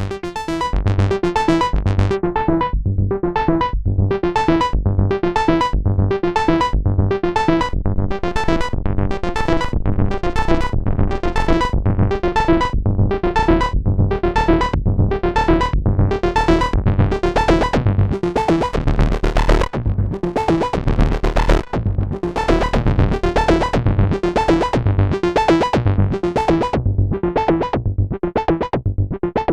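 Moog Sub Phatty analog monophonic synthesizer playing a fast repeating sequence of short notes with deep bass, the notes pulsing evenly throughout and a lower bass note held briefly about two-thirds of the way in.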